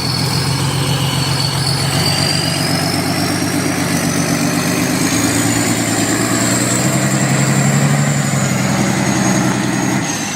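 Heavy truck engine running steadily under load, with a thin high whine that slowly rises in pitch and then falls back.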